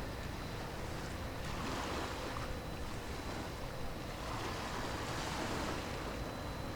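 Sea waves washing in with wind, surging twice, about a second and a half in and again around four and a half seconds.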